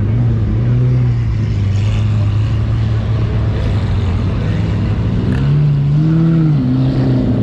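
Car engines running at low revs as a line of cars rolls slowly past, with one engine revving up briefly about six seconds in.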